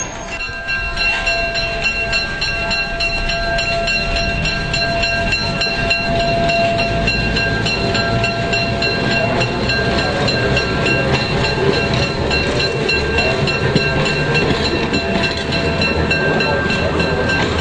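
Electric streetcar running on its track: a steady whine of several tones over a low rumble, with a fast, even ticking throughout.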